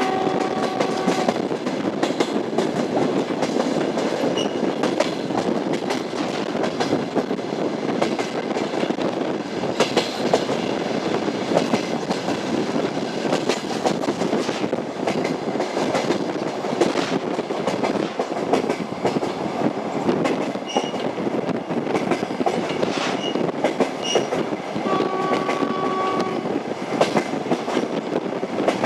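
A moving train: wheels clattering over the rail joints over a steady rumble. A short horn tone sounds twice, near the start and again about 25 seconds in.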